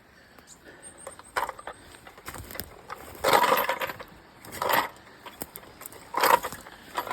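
Footsteps crunching and brushing through undergrowth on a forest trail, in irregular steps with a few louder crunches near the middle and end.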